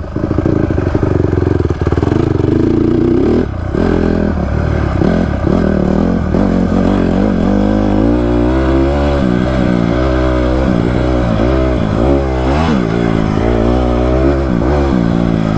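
Honda CRF150R's single-cylinder four-stroke engine revving hard as the dirt bike is ridden, with a brief drop in revs about three and a half seconds in, then the pitch rising and falling with the throttle.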